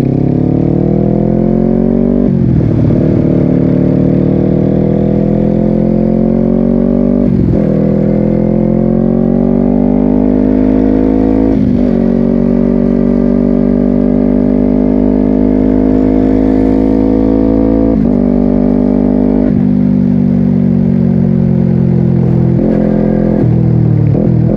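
2022 Honda CBR250RR's 250 cc parallel-twin engine through a Yoshimura exhaust, accelerating hard and upshifting three times: each shift a brief sharp dip in revs before the pitch climbs again, as the quickshifter cuts in. It then holds a steady pitch for several seconds, steps down in revs twice and rises and falls briefly near the end as the bike slows and gears down.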